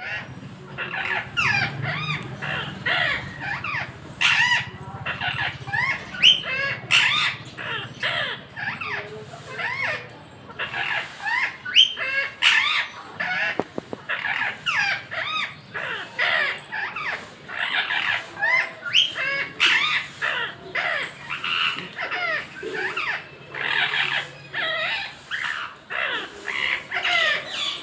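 Parrots calling back and forth in a dense, continuous run of short squawks and chirps, many sliding up or down in pitch.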